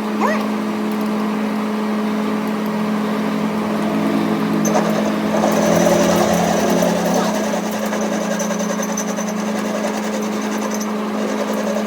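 A machine running with a steady hum. A thin high whine joins it about halfway through and stops shortly before the end.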